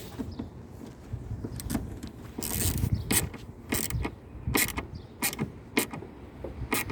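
A self-tapping screw being driven by hand into a Kia Optima's plastic door trim panel, with irregular creaks and sharp clicks as it turns and bites into the plastic.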